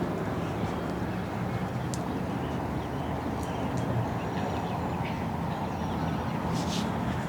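Steady rumble of city traffic with a few faint bird chirps and light ticks over it.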